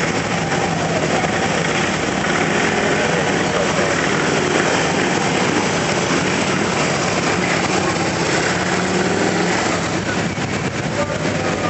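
A steady stream of motorcycles riding past, many engines running together, with their pitch rising and falling as individual bikes go by.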